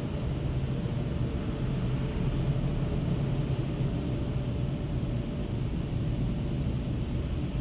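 Dodge Grand Caravan minivan idling, heard from inside the cabin as a steady low hum.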